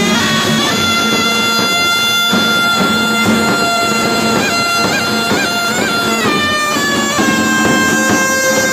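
Halay folk dance music led by a loud, reedy wind instrument. It plays long held notes with quick ornamented turns between them.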